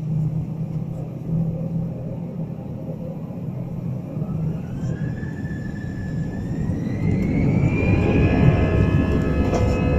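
Airbus A319 jet engines spooling up to take-off thrust, heard from inside the cabin: a whine climbs steadily in pitch over a few seconds while a rumble builds and grows louder in the second half.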